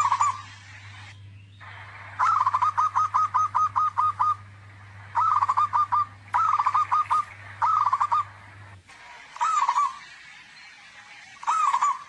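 Zebra dove (perkutut) cooing loudly: about six phrases of quick, evenly repeated notes, the longest about two seconds, with short pauses between. A low steady hum runs underneath and stops about three-quarters of the way through.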